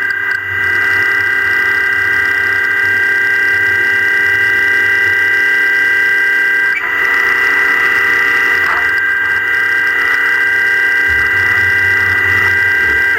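Four-axis Fanuc CNC milling machine cutting at high spindle speed: a steady, loud, high whine of several pitches. It drops briefly about half a second in and again about seven seconds in.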